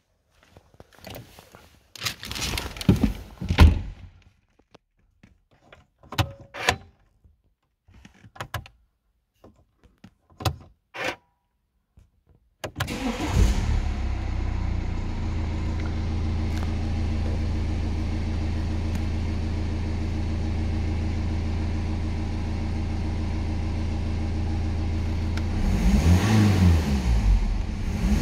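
A few scattered knocks and clicks, then the BMW 1 Series diesel engine starts about halfway through and settles into a steady idle. Near the end it is revved briefly twice.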